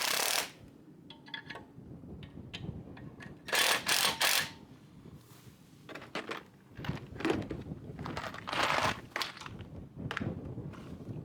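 Hose-hanger hardware being handled and fitted: scattered knocks and clicks with brief rustling or scraping bursts, including three close together about four seconds in.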